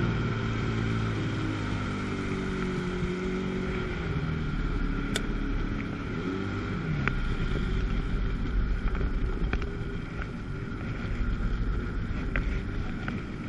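Two-stroke jet ski engine running on the water, its pitch rising and falling a little with the throttle, over a steady rushing hiss.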